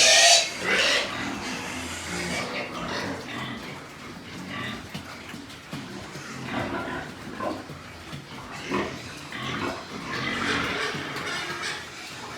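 Pigs grunting and calling, loudest at the very start, with short grunts on and off after that.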